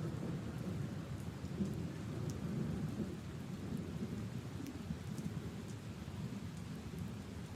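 Steady rain falling on puddles and leaves: a continuous low rumbling wash with scattered faint drop ticks.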